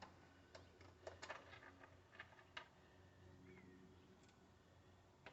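Near silence, with a handful of faint clicks and light taps in the first few seconds.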